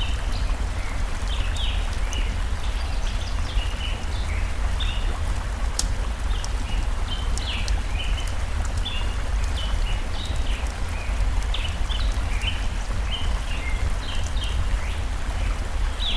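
Forest ambience: a stream's water runs steadily with a low rumble, while birds chirp over it constantly in short notes that fall in pitch. Sharp crackles from a wood fire pop in here and there.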